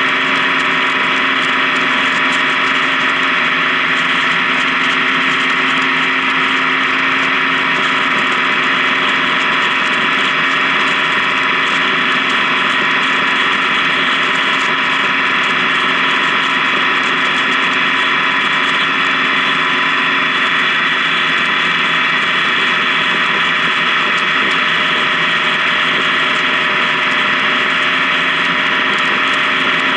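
Honda Gold Wing touring motorcycle cruising at a steady speed on the highway: an even engine drone mixed with a steady rush of wind and road noise, unchanging throughout.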